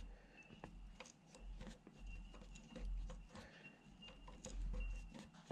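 Threads being cut by hand with a tap in a tap wrench, turned slowly: faint scattered clicks and light scraping, with a soft low swell every second or so.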